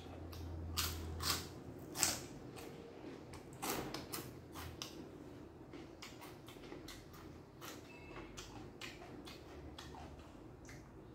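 Close eating sounds: crunching and chewing crisp pork rind and raw vegetables in scattered crisp crunches, loudest about one to two seconds in and again near four seconds.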